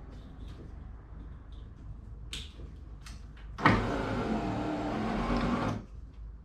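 Mazda RX-7 (FC3S) electric power window motor running for about two seconds with a steady whine, starting near the middle after a few faint clicks from the door switch.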